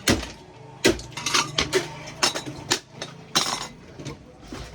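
Irregular metallic clinks and knocks, several sharp taps in a row, as metal parts and utensils are handled and tapped against each other.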